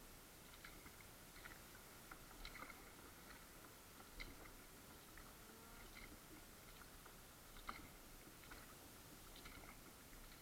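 Near silence with faint, irregular small clicks and ticks, about one a second.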